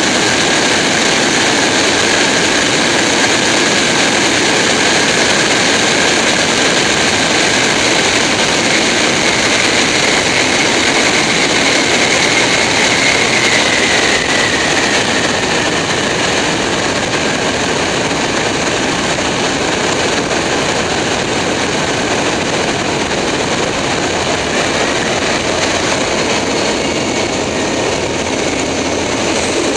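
Steady loud rush of airflow and jet engine noise heard from inside a Boeing 747's landing gear bay, with a faint whine that rises and then fades about halfway through.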